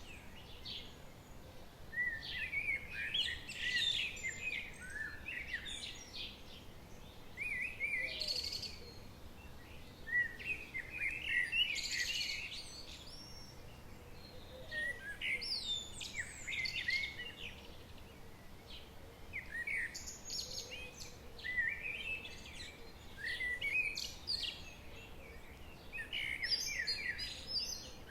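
Wild songbirds singing in the forest, short chirping phrases coming every two to four seconds, over a faint steady hiss of background noise.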